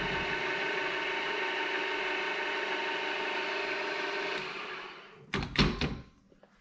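Milling machine running steadily, then winding down and stopping about five seconds in as the job finishes, followed by a few sharp knocks and clatters.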